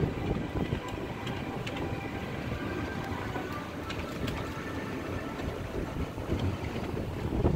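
A ride-on train rolling along its track: a steady low rumble with a few irregular clicks from the wheels and cars.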